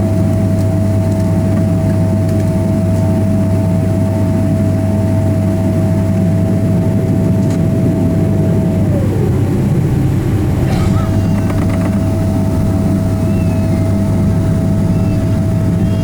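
Cabin noise of a Boeing 777-300ER with its GE90 turbofan engines: a steady low rumble with an engine whine that drops in pitch about nine seconds in, then returns.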